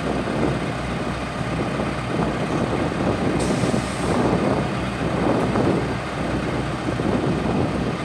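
Heavy engine running steadily, with a rushing noise that swells and eases every second or so.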